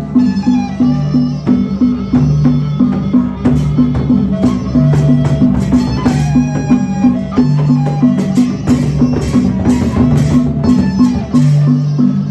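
Gendang beleq ensemble playing traditional Sasak music: a fast, even pulse of drum and percussion strokes under low repeated tones, with a melody line that glides between notes.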